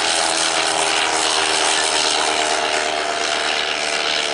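Piston engine of a propeller aircraft flying past, a steady loud drone with a rasping edge that eases slightly near the end.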